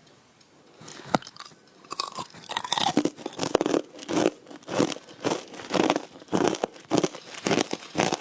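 Hard ice being bitten and chewed, close up: a single sharp crack about a second in, then a steady run of loud crunches, about one to two a second.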